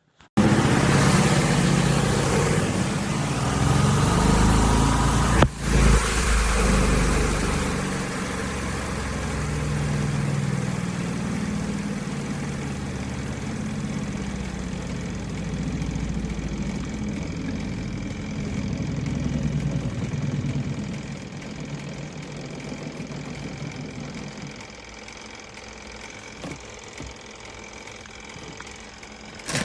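Portable twin-tub washing machine running: a motor hum with churning noise that starts suddenly. There is a sharp knock about five seconds in, and the sound slowly dies down over the last third.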